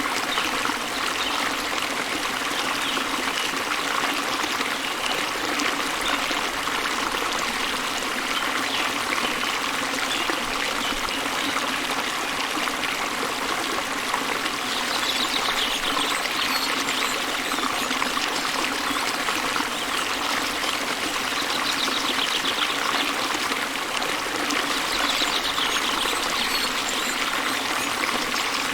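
Small waterfall splashing into a river, a steady, even rush of running water. A bird's fast trill is heard faintly a few times over it.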